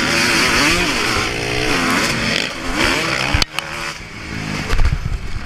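Motocross bike engine revving up and down as it is ridden round the track. The throttle is shut suddenly about three and a half seconds in, and a few low thumps follow near the end.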